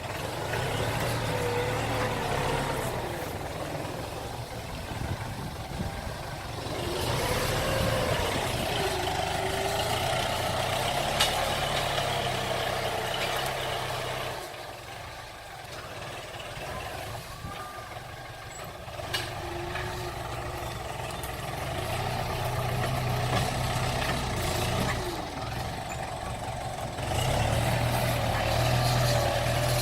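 Diesel engines of six-wheel dump trucks running on the road, their note swelling and fading as they pull, with a quieter stretch about halfway through.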